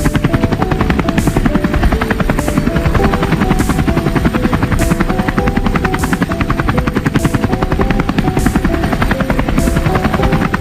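Helicopter rotor chopping in a fast, even beat, steady throughout, with background music carrying short stepped notes and a regular beat about every second and a bit.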